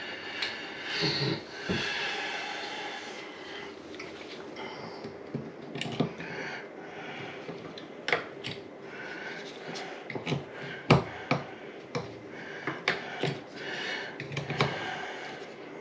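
Scattered sharp clicks and light taps of small faucet cartridge parts being handled and worked on, with a soft hiss in the first few seconds.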